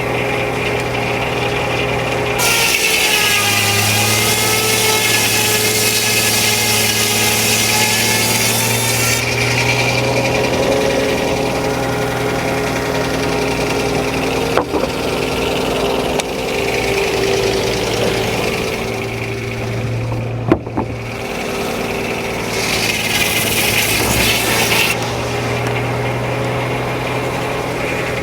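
Frick No. 1 sawmill sawing a log: the circular saw blade cuts through the wood from about two seconds in to about nine seconds, and again for a couple of seconds near the end, over the steady running of the power unit that drives it. Two sharp knocks sound between the cuts.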